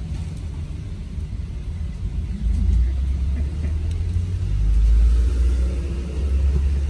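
Suzuki Jimny JB74's engine idling, heard from inside the cabin as a steady low rumble that grows louder about halfway through.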